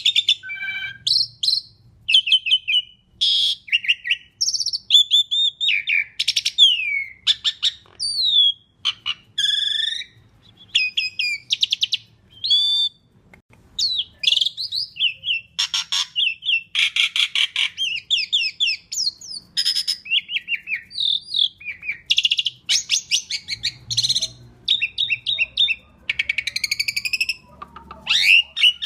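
Asian pied starling singing nonstop: a busy, varied song of whistled notes, sliding rising and falling phrases and fast rattling trills, with only brief pauses.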